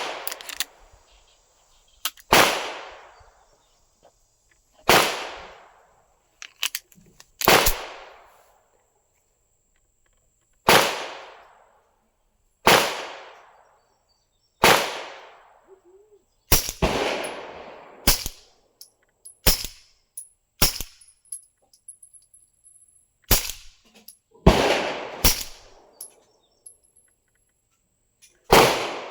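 A series of about a dozen suppressed shots from a Sig P365 9mm pistol, fired one to three seconds apart. Each shot is a sharp crack that trails off in a short echo.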